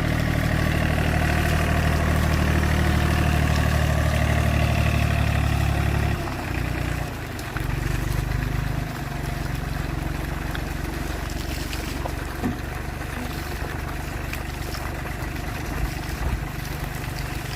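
A car engine idling with a steady low hum. About six seconds in the sound drops and shifts, then goes on as a lighter, steady idle.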